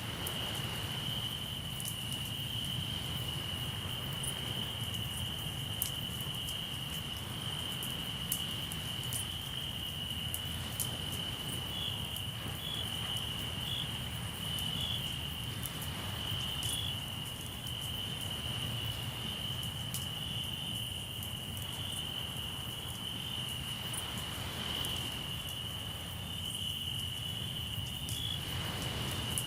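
Crickets trilling in one continuous high note, with a second cricket chirping in short pulses just above it for a few seconds, over the scattered sharp crackles and pops of a campfire and a steady low rumble of the sea.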